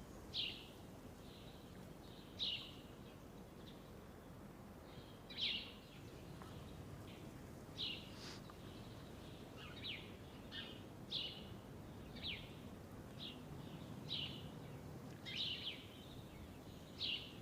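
Small birds chirping: short, high chirps every second or two, faint over a low steady hiss.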